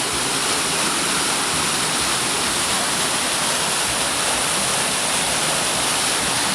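Waterfall pouring steadily, a dense, even rush of falling water with no breaks.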